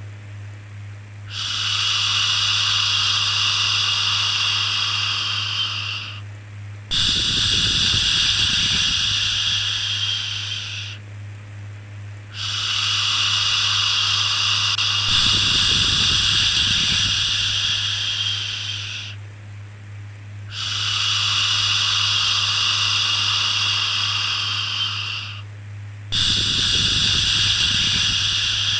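A long, steady 'shhh' shushing sound, repeated about five times with short breaks of around a second between, each shush lasting several seconds. A faint steady low hum runs underneath.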